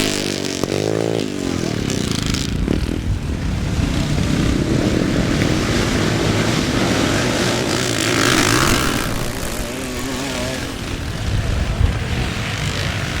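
Classic motocross motorcycles racing: engines revving and passing, with one bike's note rising and falling about a second in and another swelling briefly past near the middle.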